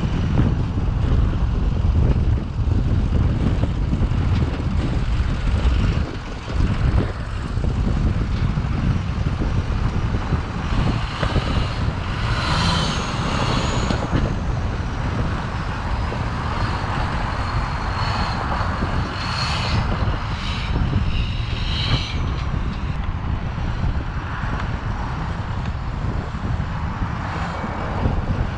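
Street-legal monster truck's engine running as it is driven, a continuous low rumble. A few brief higher-pitched sounds come in about twelve and twenty seconds in.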